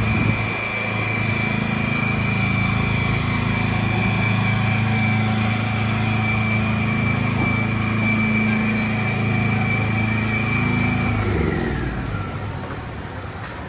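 A motor vehicle's engine runs close by at a steady hum, with a thin high whine over it. About eleven seconds in, the pitch drops and the sound fades away.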